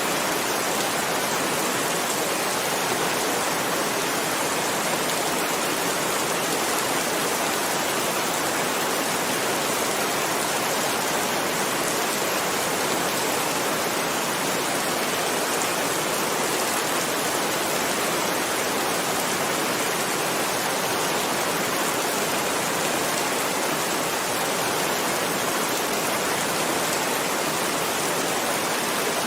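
Heavy rain falling as a steady, even hiss that does not change.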